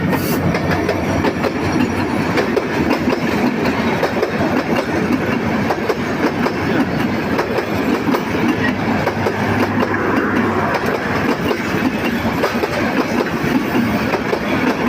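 A train running on the rails, its wheels and carriages rattling steadily, a continuous run of many small knocks over a steady din.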